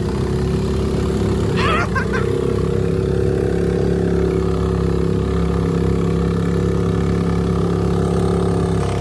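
A small engine running steadily at an even pitch, with a brief shout about two seconds in.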